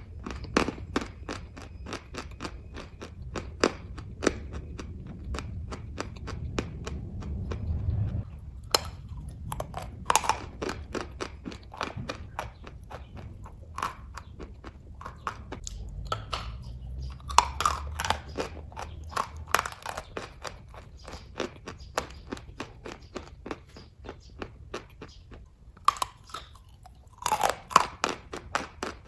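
Close-up chewing of kaju katli (cashew fudge), with many small sharp mouth clicks and smacks and a louder cluster near the end.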